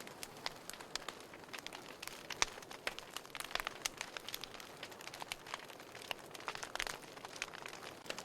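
Wood fire in a fireplace crackling: irregular sharp pops and snaps over a soft steady hiss.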